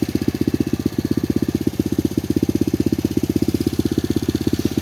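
SSR 125cc pit bike's single-cylinder four-stroke engine idling just after a kick start, with a steady, even beat of firing pulses. On its new carburetor it holds a normal, low idle instead of having to idle high.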